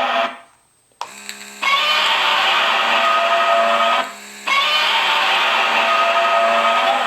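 Godzilla roar sound effect played through a small sound-board speaker, harsh and loud. It breaks off just after the start; about a second in there is a click and a short buzzing tone, then the roar plays twice more with a brief pause between.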